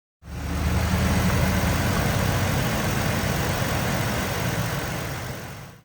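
2023 Ford Transit 250 cargo van's V6 engine idling steadily. The sound cuts in suddenly and fades out near the end.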